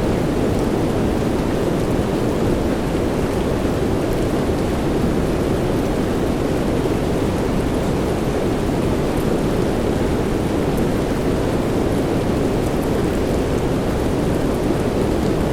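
Steady soft rain: an even, unbroken rushing hiss, deeper than it is bright, with no single drops or peals standing out.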